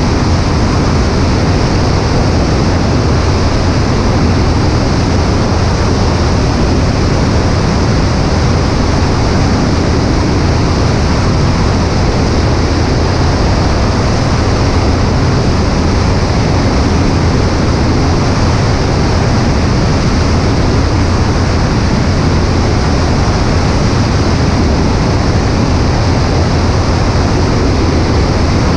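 Cessna 140A in flight, heard from a camera on the right wing: a steady low engine drone under heavy, unbroken wind rush.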